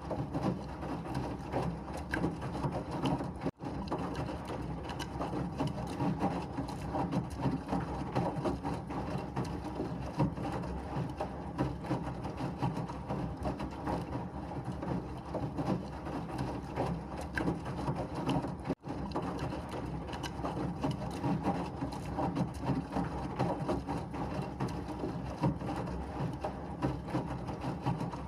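Washing machine running, a steady churning drone with a constant light rattle and clatter of the turning drum. The sound cuts out for an instant twice.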